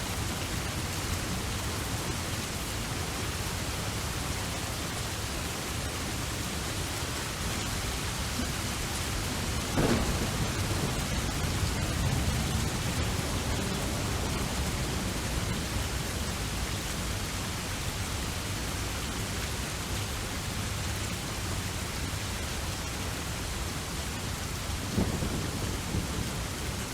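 Steady rain falling, with a thunderclap about ten seconds in that rumbles off over a few seconds, and a shorter, sharper crack of thunder near the end.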